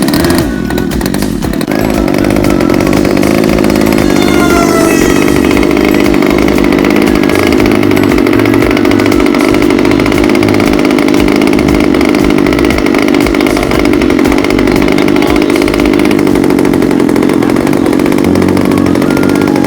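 Radio-controlled model airplane's small combustion engine running steadily and loudly, coming in abruptly right at the start.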